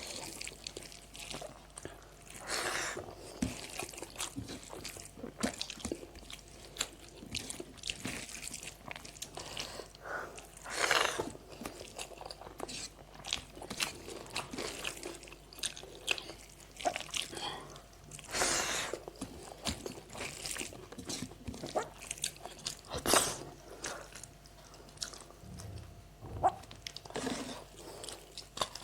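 A person eating close to the microphone: chewing, with irregular crunchy bites and clicks and a few longer noisy swells.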